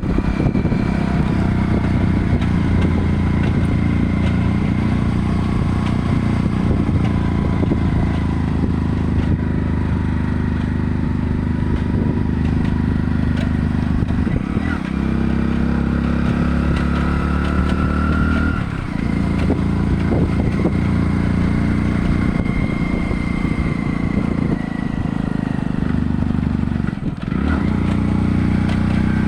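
A steady, loud, low engine drone, like a motor vehicle running, with a few brief dips in loudness.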